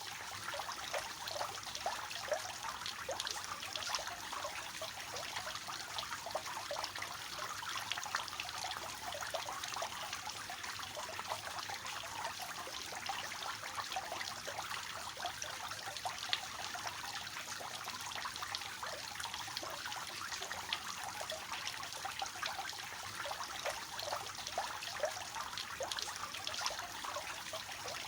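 Water running steadily down a triple-cascade fountain, a continuous splashing trickle thick with small drops.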